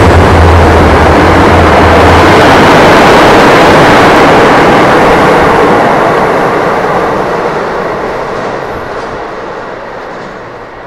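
A train passing close by: loud, steady rumbling rail noise that fades away over the second half as the train recedes. A low hum underneath stops about two seconds in.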